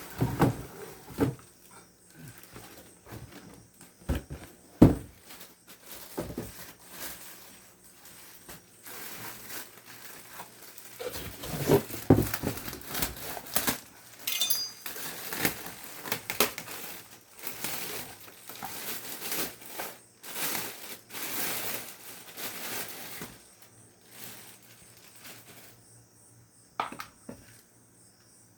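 Irregular clatter and crinkling of hard objects and wrapping being handled, with a few sharp knocks near the start and around four to five seconds in.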